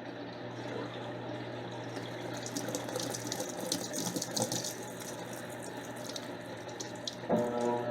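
Electrolux LTC10 top-loading washing machine filling: water runs into the tub with a steady hum underneath, splashing more busily through the middle. Just before the end a motor starts with an even whine.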